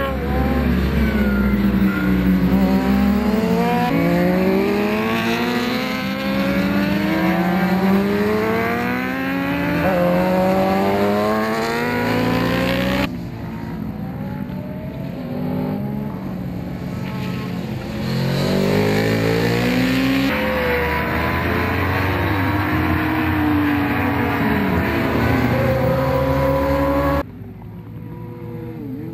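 Several 1000 cc superbike engines at racing speed, their pitch climbing and dropping through gear changes as bikes come past one after another. The sound cuts abruptly twice, about 13 s and 27 s in.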